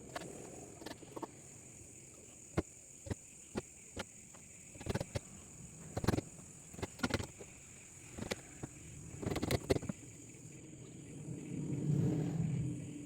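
Irregular knocks and taps, some single and some in quick clusters, typical of wood being handled and tapped in a woodworking shop. Near the end a low rumble swells up and fades.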